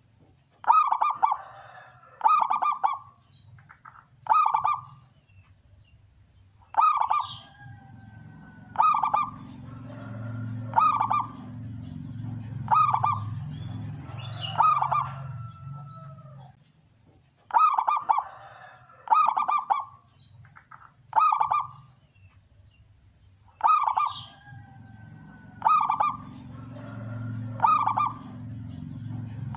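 Male zebra dove (perkutut) singing: short, loud cooing phrases repeated about every two seconds, its deep 'kung' voice. A low hum rises and falls underneath.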